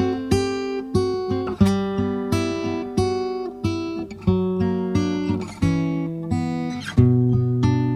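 Acoustic guitar music: plucked notes and strummed chords at an easy pace, each ringing out and fading before the next.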